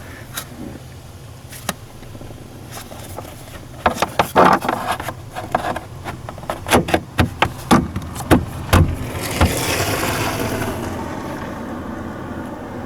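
Clicks and knocks, then about nine seconds in the VW Golf 7's 1.6 TDI diesel engine starts. It flares up briefly and settles to a steady idle, running now that the fuel pump control module has been replaced.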